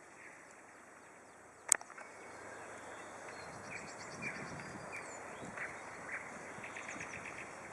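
Birds chirping and singing quietly in the background over a steady outdoor hiss, with a single sharp click a little under two seconds in.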